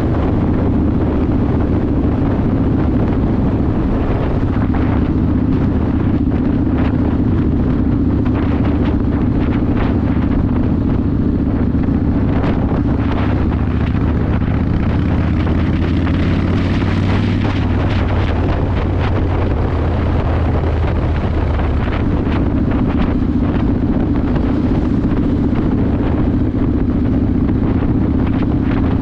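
Yamaha Warrior 1700's V-twin running under way through a custom exhaust, with wind buffeting the microphone. The engine note changes about halfway through, then settles back to a steady drone near the end.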